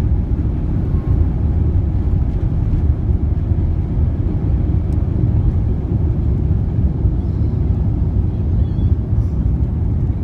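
Steady low rumble inside the cabin of an Airbus A350-900 in flight: engine and airflow noise heard from a window seat.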